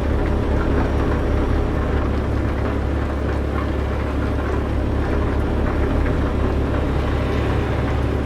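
Semi-truck engine running with a steady, deep drone.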